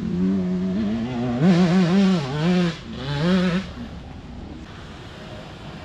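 Four-stroke motocross bike engine running on its stand, wavering in pitch with a few louder swells of throttle in the middle, then settling back to a quieter idle.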